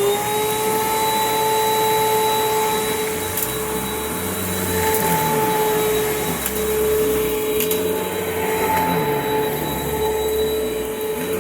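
A 2009 Hoover Mach Cyclonic upright vacuum cleaner running at full speed: a steady motor whine, with a lower rumble that comes and goes every few seconds and a few light clicks. The owner judges that it definitely needs a new belt.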